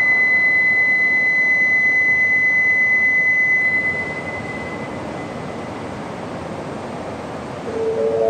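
Rushing roar of a departing E2 series Shinkansen train echoing through the underground station, with a steady high electronic tone over it that cuts off about three and a half seconds in. The roar then fades to a low hum, and near the end a station chime melody begins.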